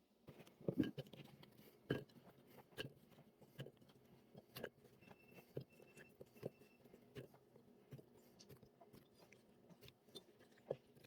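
Kitchen prep handling sounds: irregular light clicks and knocks of utensils and containers, with three short high beeps about five seconds in.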